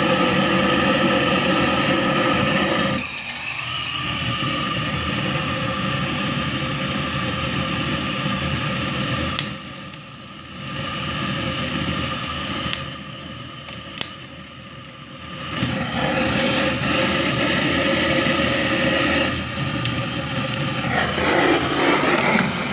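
Handheld gas burner flame running with a steady hissing roar as it lights firewood in a stove. The roar drops away briefly about ten seconds in and again for a couple of seconds a little later, with a few sharp clicks.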